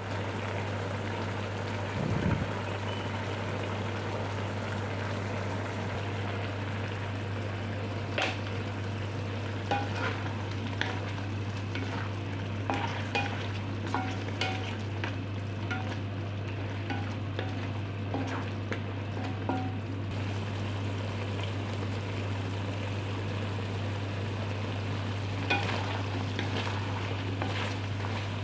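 Chicken sizzling as it fries in a pan, with a steady hiss, and a utensil now and then clinking and scraping against the pan as it is stirred, most often in the middle stretch and again near the end. A steady low hum runs underneath.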